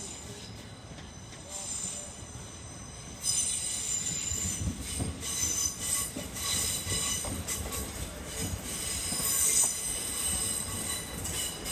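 Train passing through a station with its wheels squealing on the rails. Several high, wavering squeal tones set in about three seconds in, over a low rumble, and carry on at a louder level.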